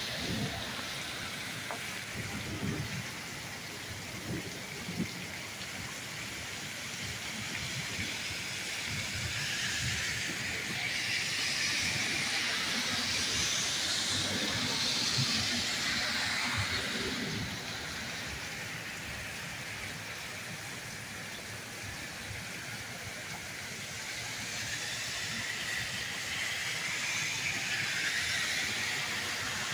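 Heavy rain pouring down steadily. About a third of the way in, a car drives past on the flooded street, its tyres hissing through standing water as the sound swells and fades, and a similar swell comes near the end.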